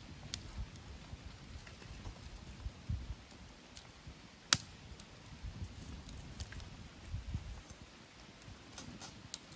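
Campfire crackling: scattered small pops and ticks, with one sharp loud snap about four and a half seconds in, over a low uneven rumble.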